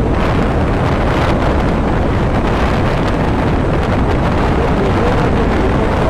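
Heavy wind noise buffeting the microphone on a moving motorbike, with the road and engine noise of the ride underneath, loud and steady.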